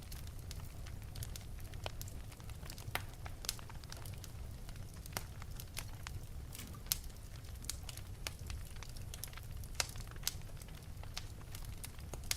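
Wood fire burning in an open fireplace, crackling with frequent irregular sharp pops over a steady low rumble.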